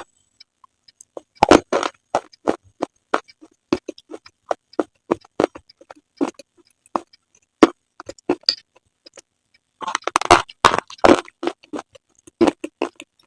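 Close-miked crunching and chewing of hard slate pencil pieces: a string of sharp, irregular cracks, roughly two a second, with a denser flurry of crunches about ten seconds in.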